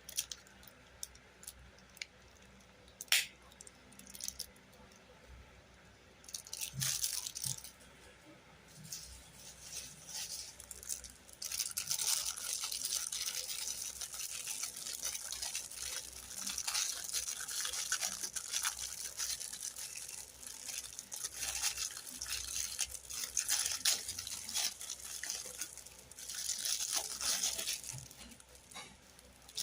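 Hands working a plastic toy: a few sharp clicks, then long stretches of scratchy, crackly rubbing from about ten seconds in.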